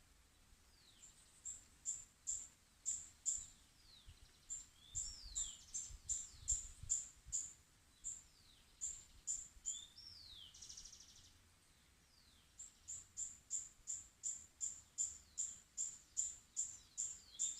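A small songbird calling: short, high chirps repeated about three a second in runs, mixed with quick downward-sliding whistles, with a brief pause about two-thirds of the way through.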